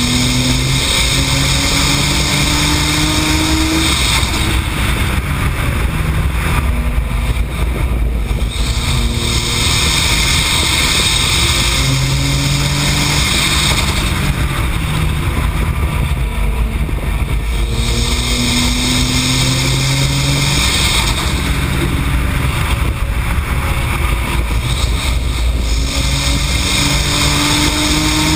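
Tuned Nissan GT-R's twin-turbo V6 under hard acceleration on track, its pitch climbing and then dropping back at each upshift, several times over. Heavy wind and road noise runs throughout.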